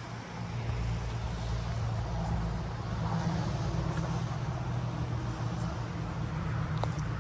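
Wind blowing across the microphone: a steady low rumble with a hiss above it.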